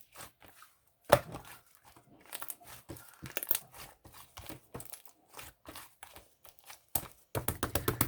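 Close handling noises: irregular crinkling, rustling and sharp clicks, with a quick run of rattling taps near the end.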